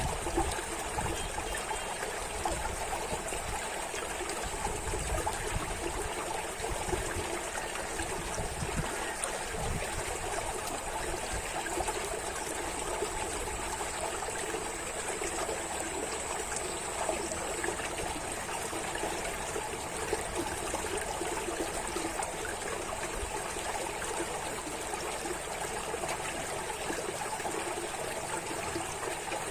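Running water, a stream trickling and burbling steadily.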